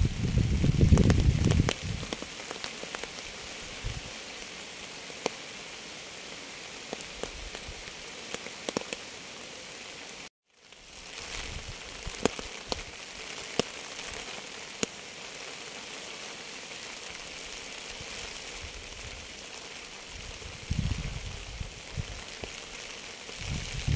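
Steady rain, with individual drops striking a surface as scattered sharp ticks. Low gusts of wind rumble in the first two seconds and again near the end, and the sound cuts out completely for about half a second midway before fading back in.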